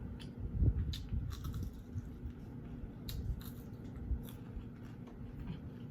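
A person chewing and biting food close to the microphone: irregular small clicks and soft low thumps.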